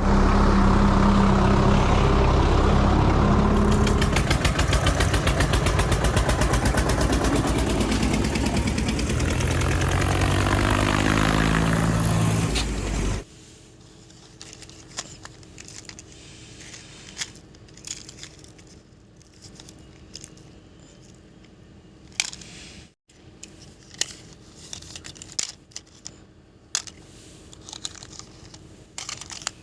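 Toy tractor's electronic engine sound effect: a loud, buzzing engine-start-and-run noise that shifts in pitch and cuts off suddenly about 13 seconds in. After it come only quiet clicks and taps of handling.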